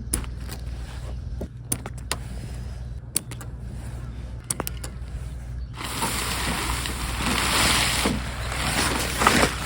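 Camping gear being handled and packed up: scattered sharp clicks and knocks over a low steady hum, then a loud rushing noise sets in about six seconds in.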